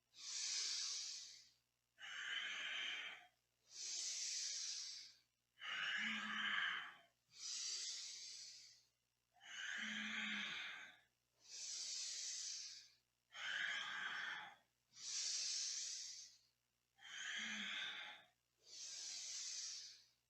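A person breathing slowly and evenly in a yoga stretch, inhales and exhales alternating, about one breath sound every two seconds.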